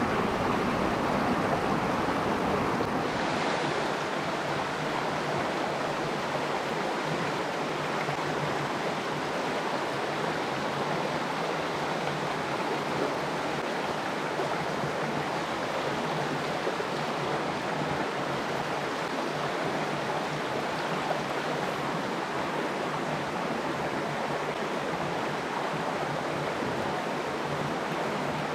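Stream water rushing over rocks, a steady even flow.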